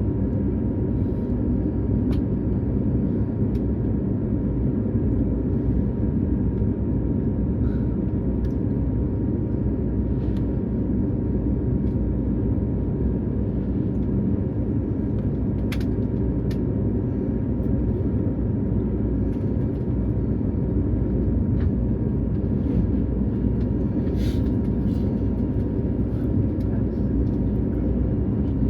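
Steady low rumble and hum of an Airbus A220-300 cabin while the airliner stands during de-icing, with a thin steady tone and a few faint clicks.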